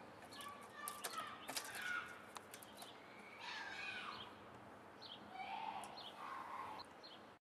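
Faint birds chirping, with a few soft clicks.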